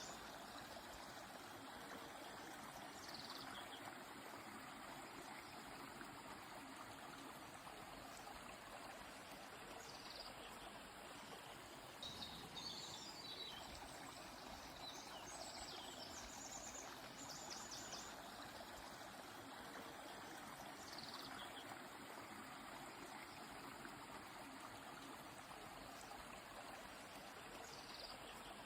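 A river flowing steadily, with small birds calling over it: a few short falling calls and, around the middle, a run of quick chirps.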